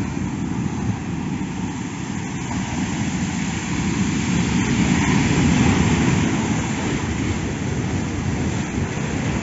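Rough, storm-swollen sea surging and washing against a rocky shore, swelling louder around the middle, mixed with wind.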